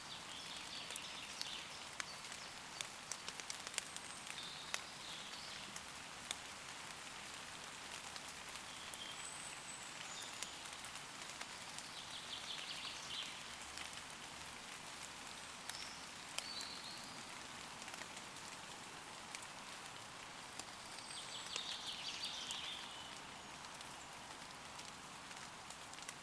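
Light, steady rain falling on leaves, with individual drops ticking close by. Birds give short calls every few seconds.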